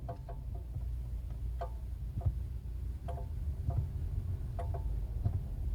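Light, irregular clicks and taps from a Chery Tiggo 7 Sport with the brake pedal pressed, roughly one every half second to second, some with a brief ring, like a spoon tapping a pan. It is a noise the owner knows is not normal and has not yet traced.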